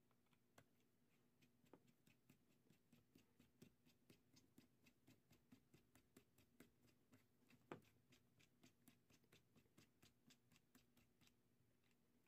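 Faint, rapid, fairly even clicking, about three to four clicks a second, with one louder click about two-thirds of the way through.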